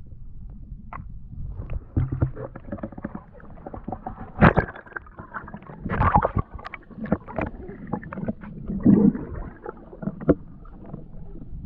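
Irregular water splashing and sloshing with scattered knocks, starting about two seconds in and easing off near the end.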